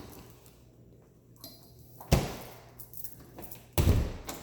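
Two knocks from kitchen doors being opened and shut, about a second and a half apart, each ringing on briefly.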